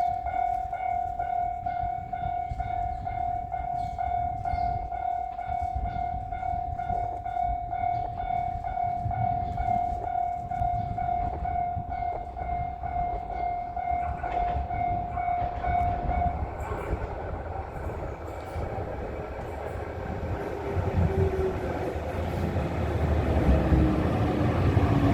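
A local train pulling into the station. Its low rumble grows louder toward the end, and a falling whine comes in as it slows. Over the first part a steady high tone with overtones sounds, then stops sharply about 16 seconds in.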